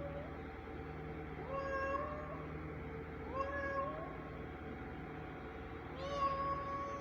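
A cat meowing three times, a second or two apart. Each meow rises in pitch and then holds, over a steady low hum.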